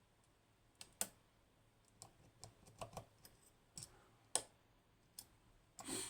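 Faint, irregular clicks and ticks of a lock pick working the spool pins of an Agent LS5 high-security pin-tumbler lock while a pin is being set, about a dozen clicks with the sharpest about four and a half seconds in.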